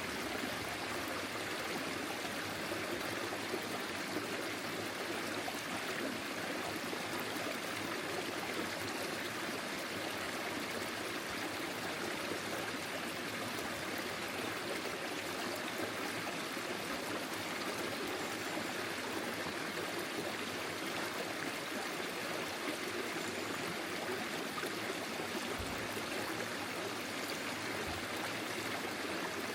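Forest stream flowing steadily over stones: a continuous even rush of running water.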